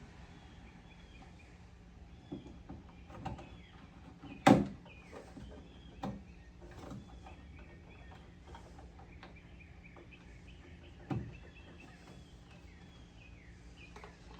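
Scattered knocks and clunks of hand work on a car, the loudest about four and a half seconds in and another near eleven seconds. Birds chirp faintly throughout.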